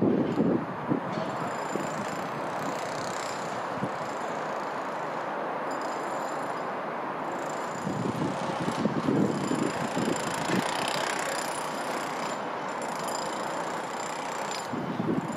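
Multiple-unit passenger trains approaching along the station tracks: first a Class 175 diesel unit, then a Class 319 electric unit. They make a steady running noise with faint high whines, broken by gusts of wind rumbling on the microphone about eight seconds in and again near the end.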